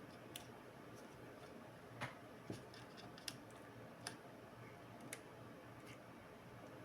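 A few light, separate clicks and taps at irregular intervals, about six in all, from small laptop parts and tools being handled.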